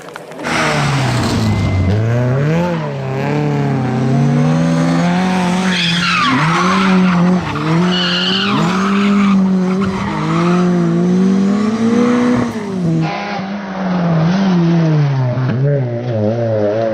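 Rally car engine at full throttle, the revs repeatedly climbing and dropping through gear changes, with tyre and gravel noise.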